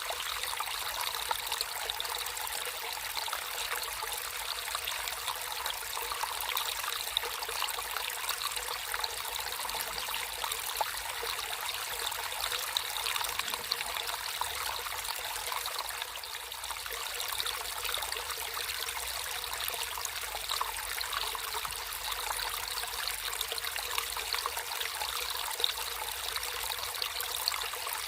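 Water trickling and flowing steadily, a continuous even babble with small splashes throughout.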